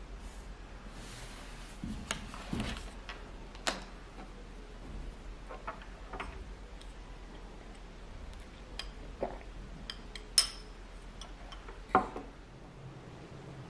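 Scattered light clicks and clinks of dishes and cutlery being handled, with two sharper clinks a few seconds before the end.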